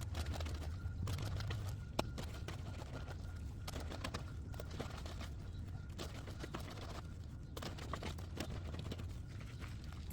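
Rustling and scattered clicks of laundry being handled and scrubbed by hand on a concrete washing station, over a steady low hum.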